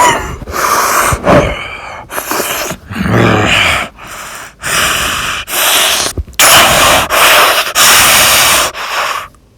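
A person's loud, breathy gasping and panting in bursts of about a second each with short gaps, and a brief strained voiced grunt about three seconds in.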